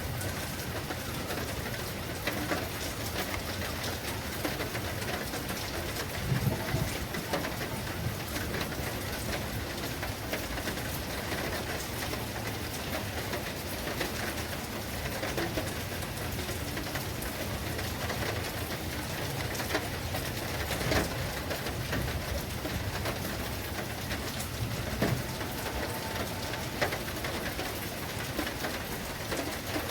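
Steady rain falling and pattering on surfaces, with scattered louder drops and splashes.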